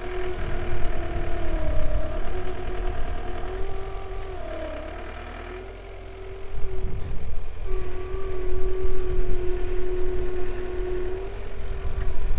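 An engine running steadily with a low rumble, its pitch dipping briefly twice, as if under load, and the sound easing off for a couple of seconds in the middle.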